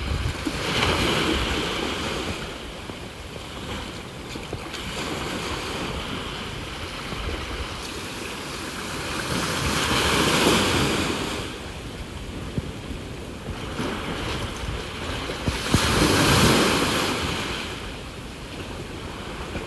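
Sea waves breaking and washing onto the shore, rising in three big surges about six seconds apart, with wind rumbling on the phone's microphone.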